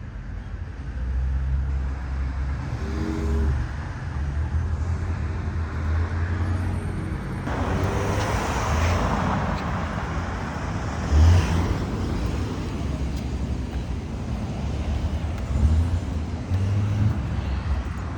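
City street traffic: cars driving past over a steady low rumble, with one vehicle passing louder about eight seconds in.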